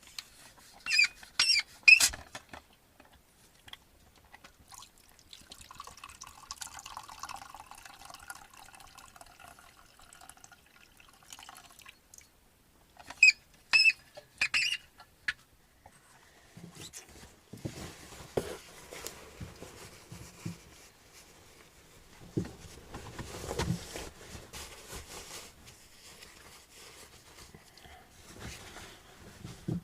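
Hot drink being poured into a mug for a few seconds, between two short runs of sharp clinks from handling the mug and lid. From about halfway on, lower rustling and shuffling of someone moving about.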